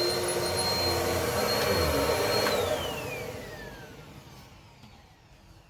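Bissell PowerLifter Pet upright vacuum running steadily with a high motor whine, then switched off about two and a half seconds in. The whine falls in pitch as the motor spins down and fades away.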